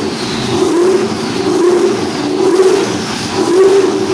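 632 cubic inch twin-turbo big-block Chevy V8 running on an engine dyno at raised rpm. Its loud note swells and dips in pitch several times, about once a second.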